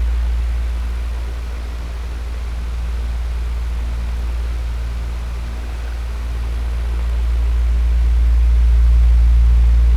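Electric fan running: an even rush of air over a strong low motor hum. The loudness dips and swells slowly over several seconds.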